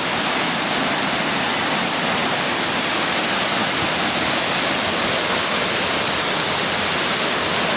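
Waterfall rushing: a steady, loud roar of falling water close by, heard from the mouth of a mine adit that opens right beside the fall.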